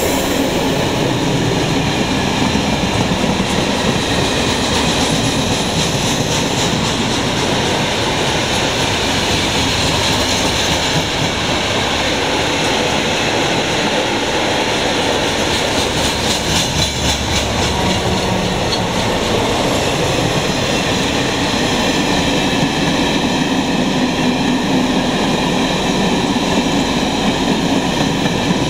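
Wagons and track machines of a track-renewal work train rolling past close by: a steady rumble of steel wheels on the rails, with short runs of clicking a couple of times as wheels cross rail joints.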